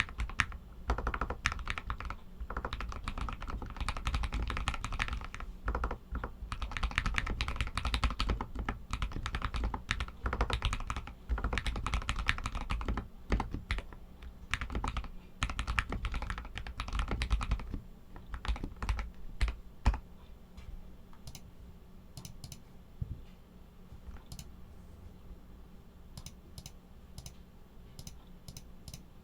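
Royal Kludge RK61 mechanical keyboard with Outemu Red linear switches being typed on: a dense, continuous run of keystrokes for most of the first two-thirds, thinning to sparse, quieter single key presses after about 18 seconds.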